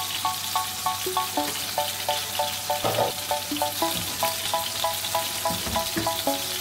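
Chicken pieces frying in oil in a nonstick pan, a steady sizzle, under background music of short repeated notes. A wooden spoon stirs a pot of boiling macaroni, with one knock about three seconds in.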